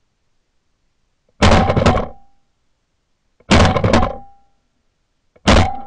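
Three shotgun shots about two seconds apart, each a sharp report with a short ringing tail: three shots spent bringing down one dove.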